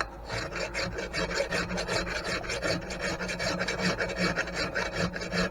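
Hand file working back and forth in quick, even strokes, cleaning up the bore of an antique grain mill's worn shaft bushing.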